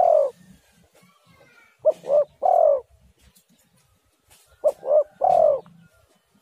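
Spotted dove cooing its three-note call, a short note, a second note and a longer falling note. The call comes twice in full, a little under three seconds apart, with the tail of a previous call at the very start.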